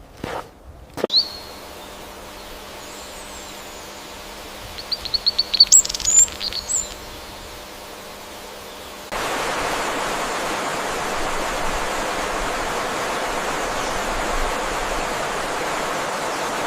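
A bird chirping in a quick series of high notes over a steady outdoor background. At about 9 s a louder, even rushing noise takes over, like wind or running water.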